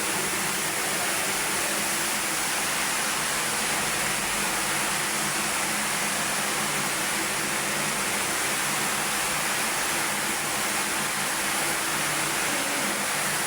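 Steady, even hiss with no breaks.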